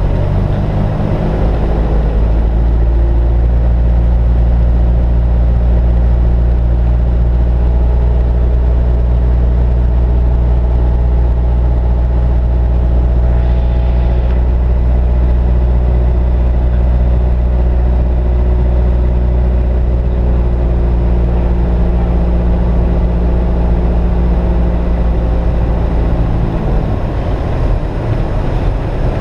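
Cessna 172S's four-cylinder Lycoming engine and propeller running steadily, heard from inside the cockpit. Near the end the engine note changes and the level dips slightly.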